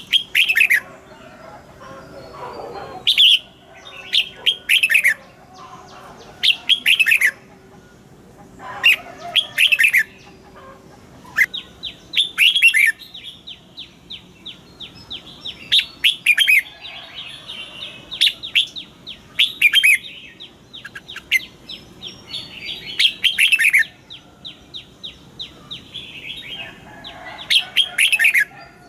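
Red-whiskered bulbuls singing: short, loud whistled phrases repeated every second or two, with a fast stream of quick chirps running through the middle.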